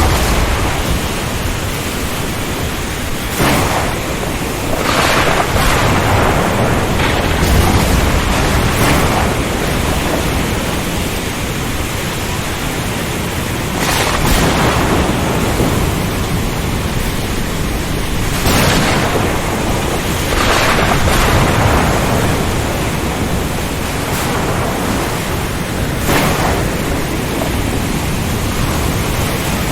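Storm at sea: a dense, steady rush of wind and rain with a low rumble, broken by rushing surges that swell up every few seconds, about seven times.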